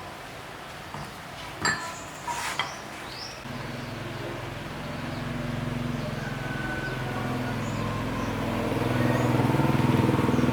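A few clicks and knocks, then about a third of the way in a motor starts running with a steady hum that grows louder toward the end.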